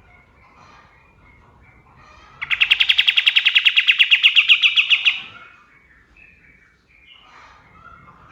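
Kapas tembak, a songbird kept for training other birds, giving a loud, rapid trill of evenly spaced sharp notes, about nine a second, for a little under three seconds. Fainter chirps from other birds sound before and after it.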